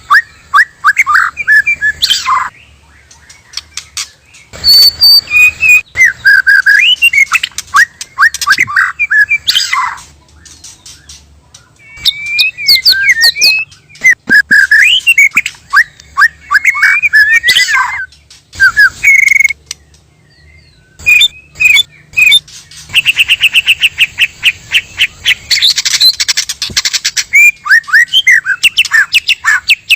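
White-rumped shama (murai batu) song: loud, varied whistled phrases that slide up and down in pitch, broken by short pauses, with a fast rattling run of repeated notes in the later part.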